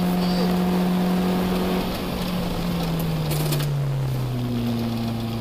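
Car engine heard from inside the cabin, holding steady revs and then falling in pitch from about two seconds in as the revs drop and it settles at a lower, steady speed.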